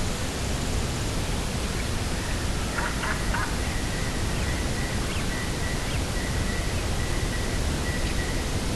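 Steady rushing of coastal wind and sea, with a few faint bird chirps about three seconds in.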